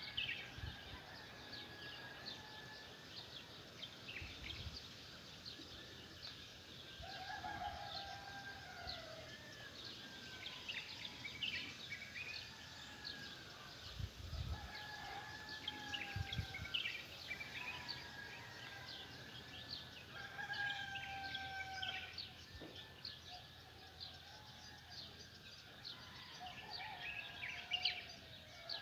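Rooster crowing again and again, each crow a drawn-out call of a second or two, with small birds chirping steadily throughout.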